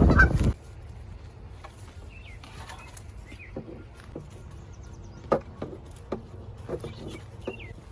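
Wind buffeting the microphone cuts off about half a second in, leaving a quiet stretch of scattered small clicks and knocks with a few short bird chirps.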